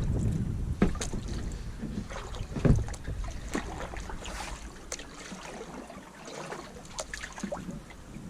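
Knocks and bumps against a kayak's hull as a person clambers out of it, with wind rumbling on the microphone that dies away about halfway through.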